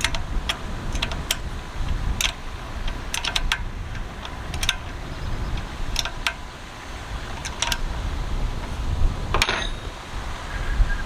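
Scattered light metallic clicks and clinks, about a dozen at irregular intervals, from handling small metal parts or tools, over a steady low rumble.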